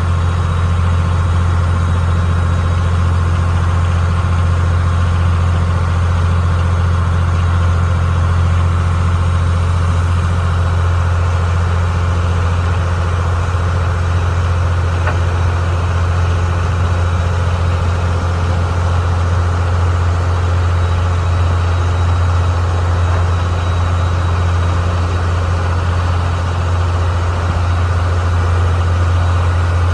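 Passenger ferry boat's diesel engine running steadily: a deep, constant drone.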